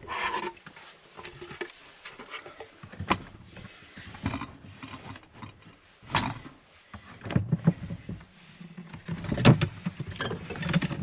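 Irregular handling noises: rustles, clicks and knocks of things being picked up, opened and set down, busier near the start and again in the second half.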